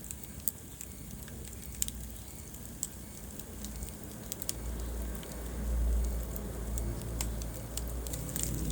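Wood fire burning in a fireplace: irregular sharp crackles and pops over a low steady rumble of the flames, which swells about halfway through.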